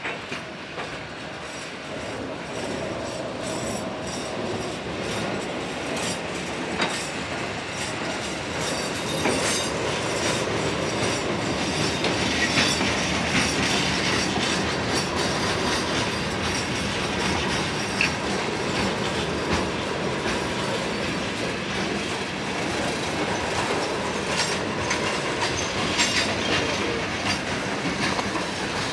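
A CSX maintenance-of-way train rolling slowly past close by, its steel wheels clicking over rail joints with some squeal. The sound grows louder over the first ten seconds or so, then stays steady.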